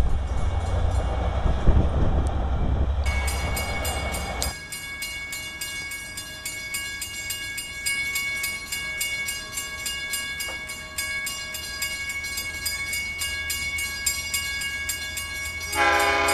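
A Long Island Rail Road train rumbling by for the first few seconds, then a grade-crossing bell ringing steadily in even strokes as a train approaches. Just before the end a locomotive air horn starts to blow.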